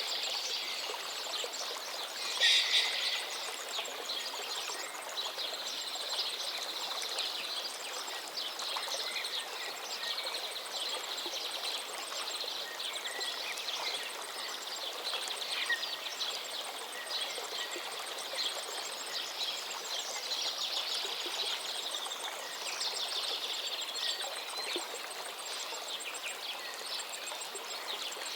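A forest stream flowing steadily under a chorus of songbirds, with overlapping chirps and trills; one bird phrase about two and a half seconds in stands out loudest.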